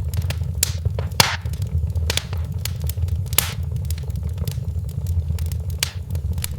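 Wood fire crackling: irregular sharp pops and snaps, a few louder ones, over a steady low rumble.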